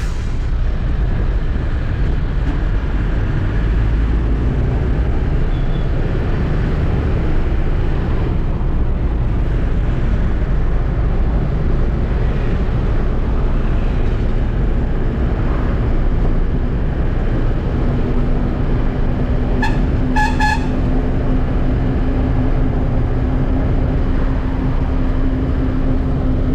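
Truck engine running steadily in city traffic, a constant low rumble. About twenty seconds in, a vehicle horn gives two short toots.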